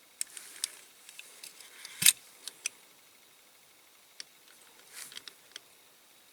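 Light clicks and taps from small parts and tools being handled at a workbench, with one sharper knock about two seconds in.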